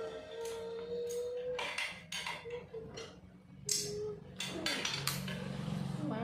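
Scattered metallic clinks and knocks of tools and exhaust parts being handled while a racing exhaust is fitted to a motorcycle.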